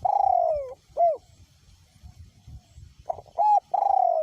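Male spotted dove cooing: a long falling coo and a short clipped note, then about two seconds later the next phrase of two short coos and another long falling coo. Wind rumbles on the microphone underneath.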